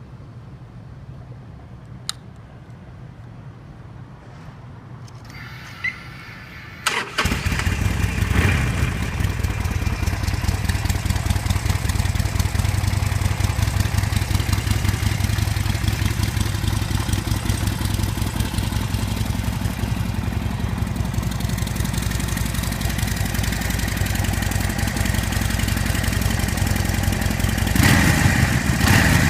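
Harley-Davidson XL1200N Nightster's air-cooled V-twin on its standard exhaust. It is started about seven seconds in, after a quiet stretch with a couple of clicks, then idles steadily. The engine note rises briefly just after it catches and again near the end.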